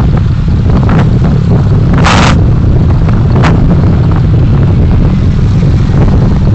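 Dashcam recording of a car driving: loud, steady low road and wind rumble. A short hiss about two seconds in, and a brief sharper tick about a second and a half later.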